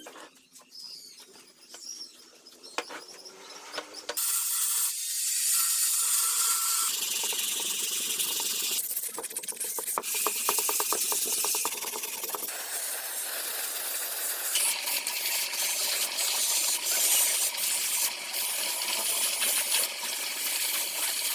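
A few seconds of quiet with small clicks, then a steady, loud spraying hiss in several stretches that change abruptly where clips are joined.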